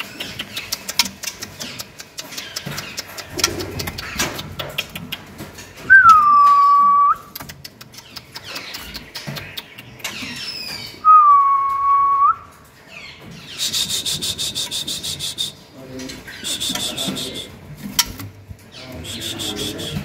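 Sharp clicks and light rattling from a caged white-rumped shama moving about a wooden cage. Two loud clear whistles come about 6 and 11 seconds in, each dipping quickly in pitch and then held level for about a second. Later come stretches of harsh, buzzy rattling.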